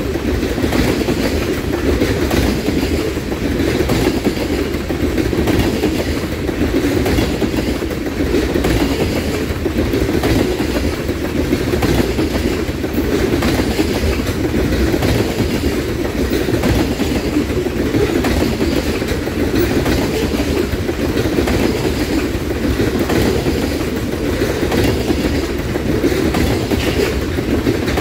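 Loaded ethanol tank cars of a freight train rolling past, their steel wheels rumbling steadily on the rails and clicking over the rail joints.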